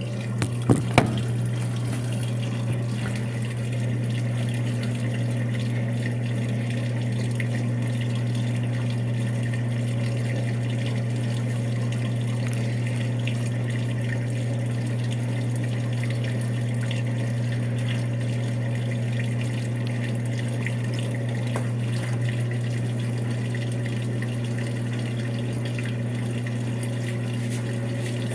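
Brastemp 5 kg washing machine draining and spinning: a steady electric hum with water flowing through it. There are a couple of short knocks about a second in.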